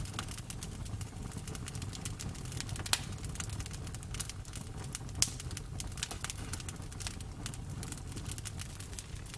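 Campfire crackling: a steady low rumble of burning with irregular sharp snaps and pops, two louder pops about three and five seconds in.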